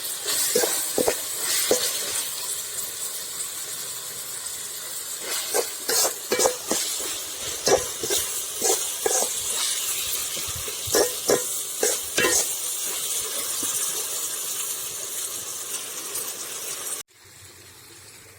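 Onions and tomatoes sizzling in hot oil in a kadai while a spatula stirs them, with repeated short scrapes and knocks against the pan. The sizzle cuts off suddenly near the end.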